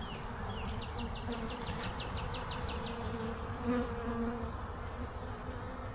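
Honeybees buzzing around an opened hive: a steady hum that swells louder briefly about three and a half seconds in.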